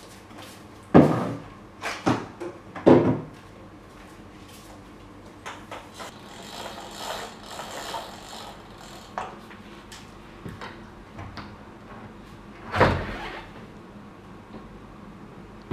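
Dull knocks and thumps of things being handled: three in the first three seconds, one more near the end, and a soft rustle in between.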